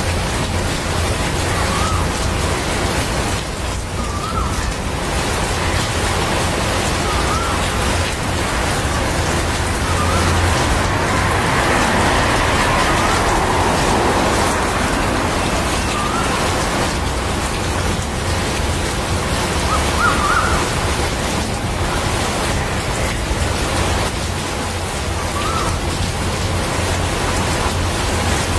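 Rain falling steadily: an even hiss of drops with no breaks, swelling slightly about halfway through. A faint short chirp rises above it every few seconds.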